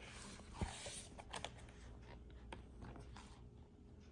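Faint handling of a paper picture book: a soft page rustle in the first second, a dull thump, then a few light taps and clicks.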